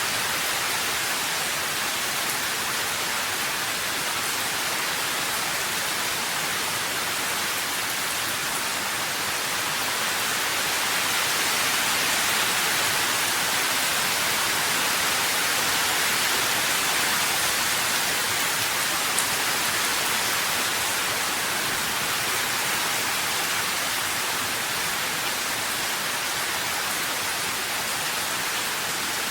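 Steady rain falling, an even dense hiss, slightly louder in the middle.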